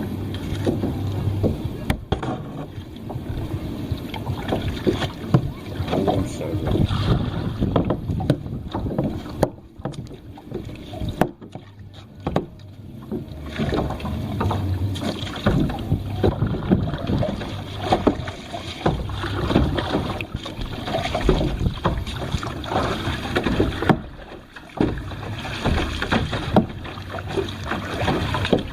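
Kayak paddling: paddle strokes splashing and dripping in the water, with wind buffeting the microphone.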